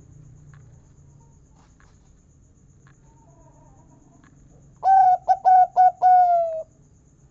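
Zebra dove (perkutut) singing one song phrase about five seconds in: four quick clipped notes, then a longer, slightly falling 'kung' note.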